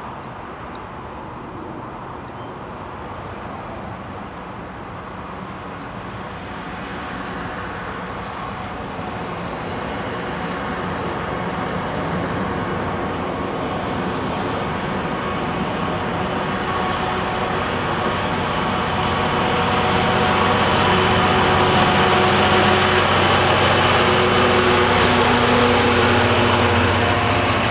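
An approaching train, its steady mechanical drone with humming tones growing gradually louder as it nears.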